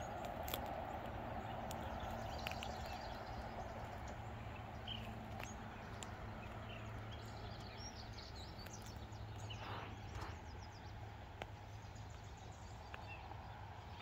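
Scattered short bird chirps and a few quick trills over a steady rumble of road traffic, which is louder in the first few seconds and then eases off.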